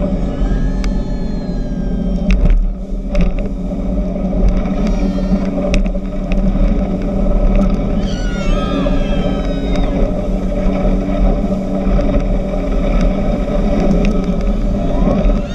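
A speedboat's engine runs steadily under way, with heavy low rumble from wind and water. Several high sliding squeals come in about eight seconds in and again right at the end.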